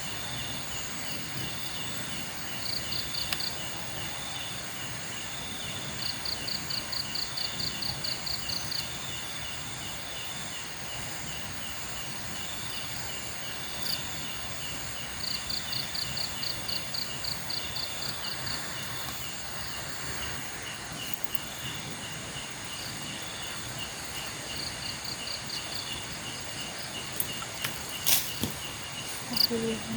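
Night insects, crickets among them, giving a steady high-pitched chorus of several tones. Every few seconds a bout of rapid pulsed chirps, about four or five a second, lasts one to three seconds. A few sharp clicks or knocks come near the end.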